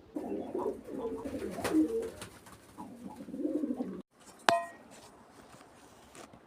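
Domestic pigeons cooing for about four seconds, then stopping abruptly. About half a second later comes a single sharp, ringing clink.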